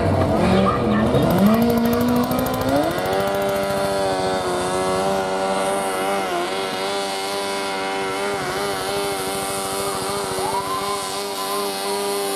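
Competition pulling machine's engine at high revs: its pitch dips about a second in, climbs sharply, then holds high and steady with small wavers, as under load during a pull.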